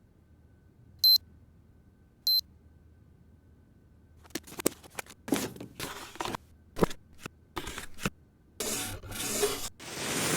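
Two short electronic beeps, a little over a second apart, from a motorcycle dash cam unit. After a pause comes a run of clicks, knocks and rustling handling noise, ending in a longer rustling hiss.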